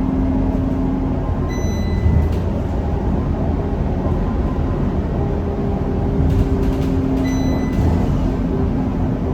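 Scania K230UB city bus engine running steadily under way, a constant low hum with tones that shift slowly in pitch. A short high beep sounds twice, about two seconds in and near the end.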